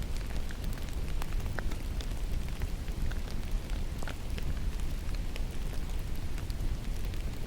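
Steady rain falling in a forest, with scattered sharp ticks of single drops striking close by.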